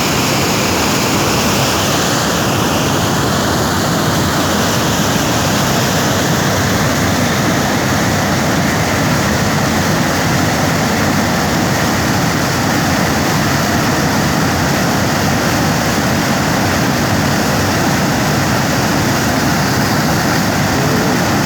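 Water pouring from a dam, heard as a loud, unbroken rush of noise.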